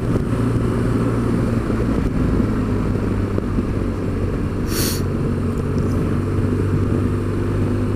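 BMW R1200 GS boxer-twin motorcycle engine running at a steady speed on the move, with wind noise on the microphone. A brief hiss comes about five seconds in.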